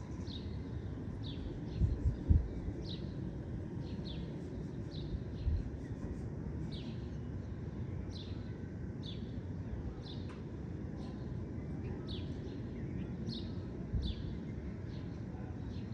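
A bird repeating a short high chirp that drops in pitch, about twice a second, over a steady low outdoor rumble. A few low thumps stand out, the loudest about two seconds in.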